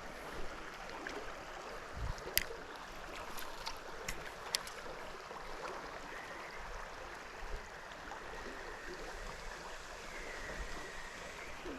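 Creek water running steadily, with a few sharp clicks between about two and five seconds in.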